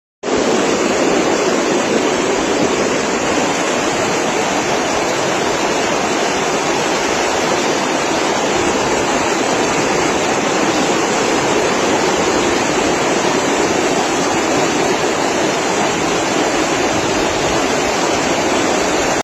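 Floodwater from heavy rain rushing down a street in a strong current: a loud, steady rushing wash with no break.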